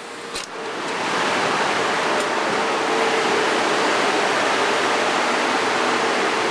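A click, then a loud rushing hiss of compressed air that builds over about a second and holds steady, with a steady tone underneath: the air starter cranking a Caterpillar V12 diesel engine.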